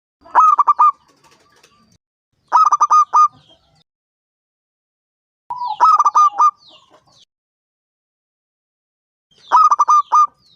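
Zebra dove (perkutut) cooing: four short phrases, each a quick run of four or five staccato coos lasting under a second, spaced a few seconds apart.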